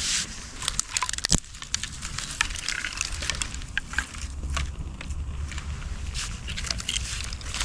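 Newly lit campfire of sticks and fat wood crackling, with irregular sharp pops, over a low rumble of wind on the microphone.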